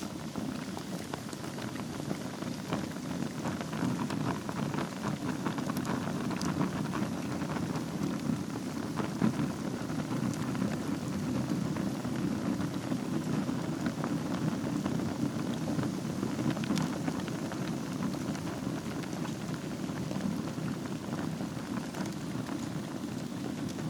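Wood fire burning in a fireplace: a steady low rush of flames with frequent small crackles and an occasional sharper pop.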